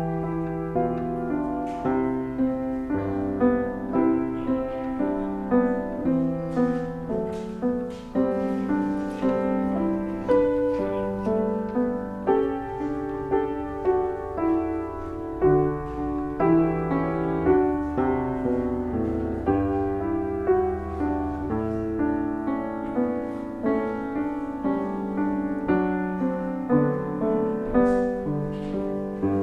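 Solo piano playing, a continuous run of chords and melody notes.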